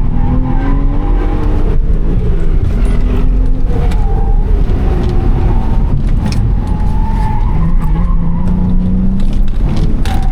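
2004 Subaru Legacy Spec B's EZ30 3.0-litre flat-six engine being driven hard on track. Its pitch falls over the first few seconds as it comes off the throttle, then rises again near the end as it revs back up.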